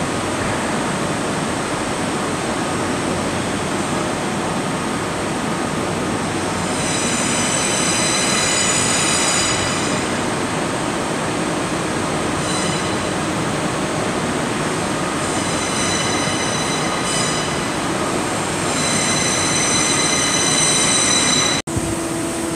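Train moving through the station, a steady rumble with several bouts of high-pitched wheel squeal. The sound cuts off abruptly near the end.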